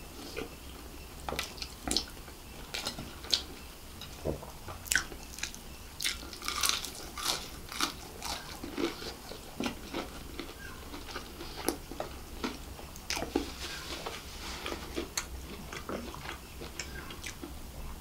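Close-miked eating: wet chewing with many short, sharp crunches and crackles, from fried boiled egg and crispy battered fried chicken.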